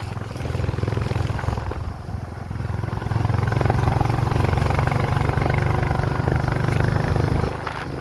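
A vehicle's engine running steadily while travelling on the road, growing louder about three seconds in and easing back shortly before the end.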